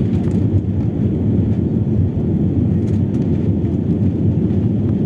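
Airliner taking off: a steady, loud, low rumble of engines and airflow.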